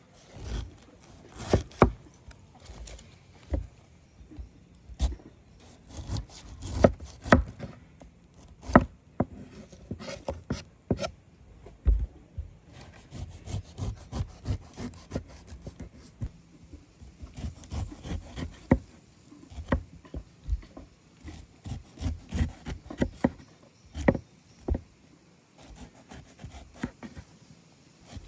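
Irregular wooden knocks and scraping, in uneven clusters of sharp hits and short rubs.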